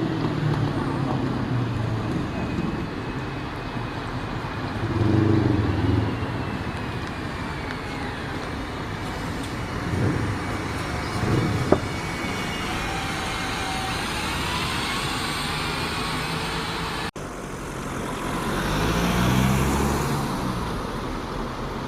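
Road traffic with vehicles driving past, their engines swelling louder about five seconds in and again near the end, over a steady traffic rumble with faint gliding whines. The sound breaks off abruptly about seventeen seconds in and picks up again.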